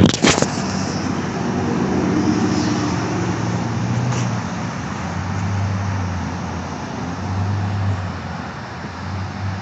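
Road traffic going by: a steady rush of cars with a low engine hum that swells and fades, after a few sharp knocks right at the start.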